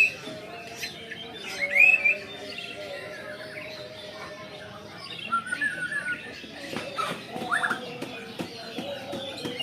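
White-rumped shama (murai batu) singing hard at a rival: a fast, varied run of whistled notes, quick rising and falling sweeps and sharp clicks, with the loudest phrases about two seconds in and again about seven seconds in.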